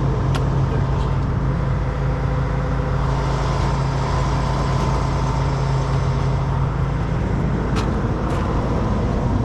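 Heavy diesel truck engine idling steadily, its low tone shifting about seven seconds in, with a few sharp metallic clicks.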